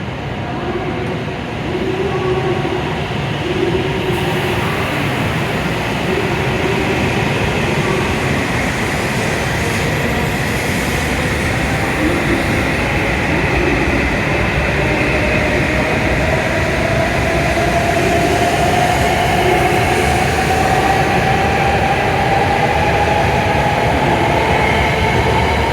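A W7 series Shinkansen train pulling away from the platform, running over a steady rumble. From about halfway in, its traction motor whine rises steadily in pitch as it accelerates.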